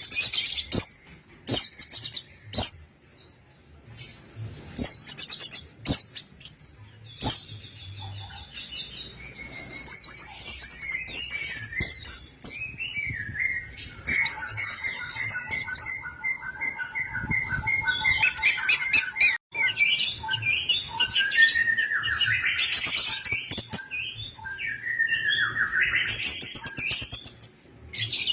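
Orange-headed thrush singing: short bursts of rapid, high chattering notes, then a longer, varied song of quick trills and whistled phrases.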